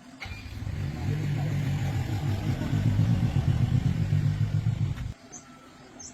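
Engine of a restored old farm machine starting up and running with a fast, low chugging for about five seconds, then stopping abruptly.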